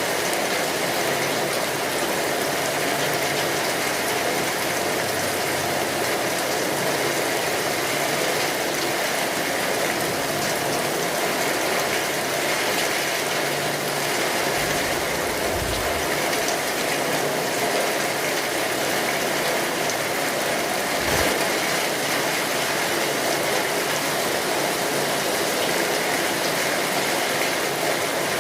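Steady rainfall, an even hiss of drops, with two brief low thuds, one about halfway through and a shorter one about three-quarters through.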